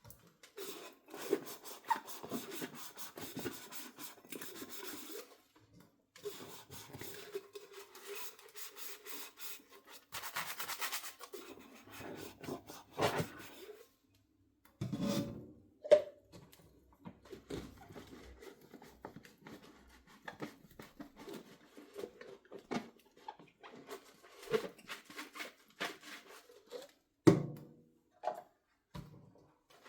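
Dishes being scrubbed by hand with a Scotch-Brite sponge, a scratchy rubbing in stretches broken by short pauses. A few sharp knocks of dishware come in between, the loudest near the end.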